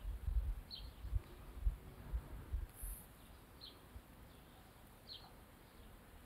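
Three or four faint, short chirps from a bird, spaced a second or more apart, over low thumping rumbles in the first few seconds.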